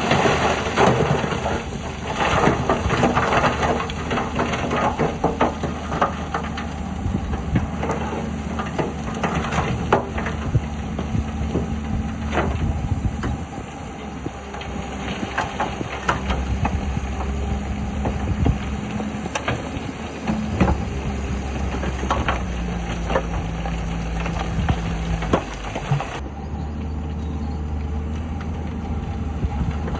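Diesel engines of heavy earthmoving machinery running and shifting in pitch, with many scattered clanks and knocks. The sound changes abruptly about 26 seconds in.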